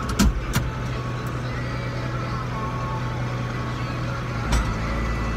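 Farm tractor engine running steadily, with two sharp knocks near the start and another about four and a half seconds in.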